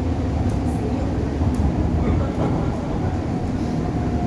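MTR East Rail line R-train, a Hyundai Rotem electric multiple unit, running along the line: a steady low rumble of wheels and running gear. A faint steady whine comes in near the end.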